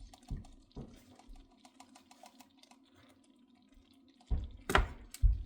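Kitchen handling sounds: faint scattered clicks over a steady low hum, then about four seconds in a few dull thumps and one sharp knock as the measuring cup and utensils are handled.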